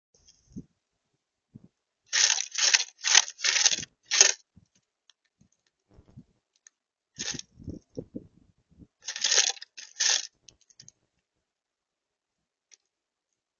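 Short scratchy, crunchy rustles in quick clusters, four or five in a row about two seconds in and more later, with a few soft low knocks in the middle: birds scrabbling and feeding at a feeder right by the microphone.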